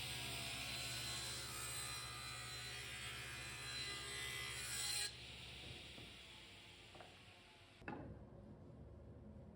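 A tool scraping along wood, a steady rasping cut for about five seconds, then fainter working sounds after a sudden change.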